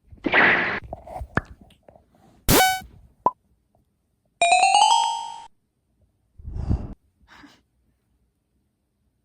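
A string of separate sound effects: a short noisy burst, a sharp bell-like strike, a ringing chime lasting about a second, then a low thud.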